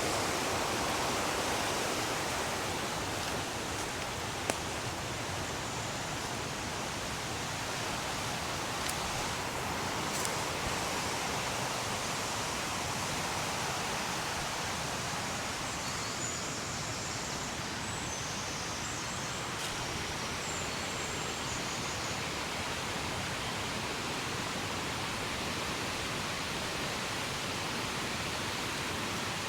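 Steady rushing of a fast, powerful river, an even wash of water noise, with one brief knock about four seconds in.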